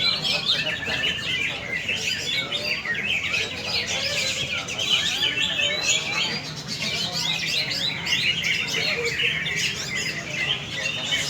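Many caged green leafbirds (cucak ijo) singing at once in a contest, a dense, unbroken tangle of rapid chirps and whistles.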